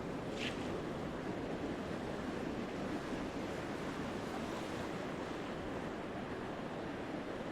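Ocean surf washing steadily on a beach. A brief high-pitched sound comes about half a second in.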